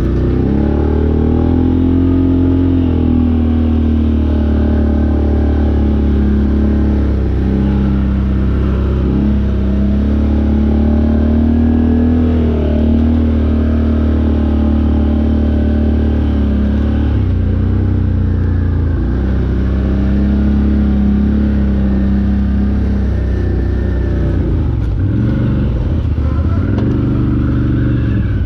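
Off-road vehicle engine running continuously while riding, its pitch rising and falling as the throttle is worked.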